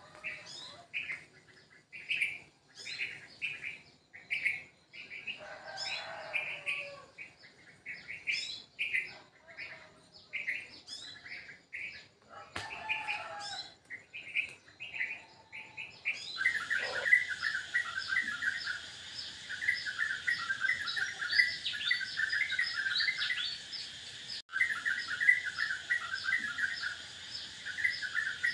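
Small birds chirping repeatedly, about two chirps a second. About halfway through the chirping turns denser, with a higher trill over a steady high hiss.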